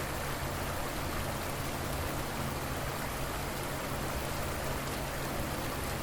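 River water flowing, a steady even rush with no separate splashes or drips standing out.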